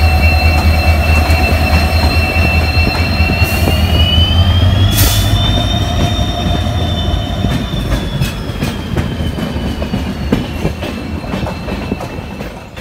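A train running, heard close by from the train: a diesel locomotive's low engine hum dies away after about five seconds, under a steady high metallic whine that wavers in pitch midway. There is a brief hiss about five seconds in, then scattered clicks of wheels over rail joints as the sound fades.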